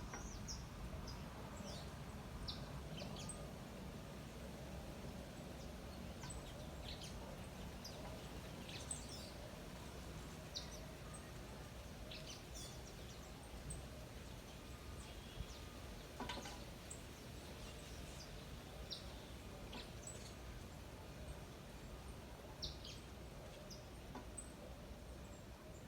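Birds calling with short, scattered chirps and tweets, high-pitched and faint, over a steady low background rumble.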